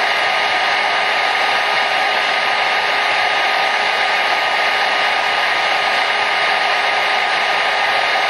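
Hair dryer running steadily: a constant, even rush of airflow with a faint steady whine from the motor and fan, used as white noise to soothe a baby.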